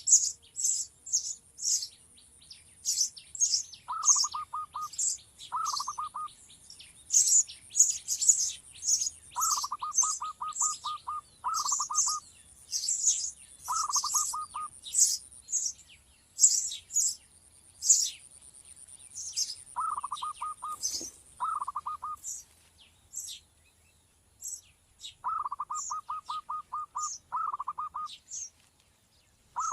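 Birds chirping: a stream of short high-pitched chirps, typical of a baby sparrow, broken every few seconds by a lower-pitched call of quick repeated notes. A thin steady high whine runs underneath and stops about two-thirds of the way through.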